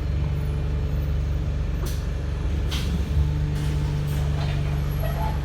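Wright StreetLite single-deck bus's diesel engine running steadily under load. The engine note breaks briefly and resumes about three seconds in, with a few short hisses around then.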